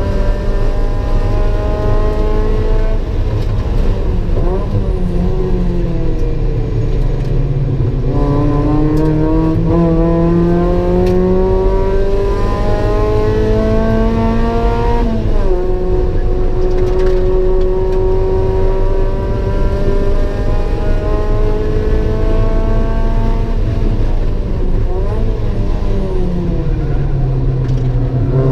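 Mazda MX-5 NA's 1.8-litre four-cylinder engine heard from inside the cabin at racing pace: the revs fall under braking, climb hard under acceleration, drop sharply at a gear change about halfway, climb again, then fall under braking near the end before rising once more.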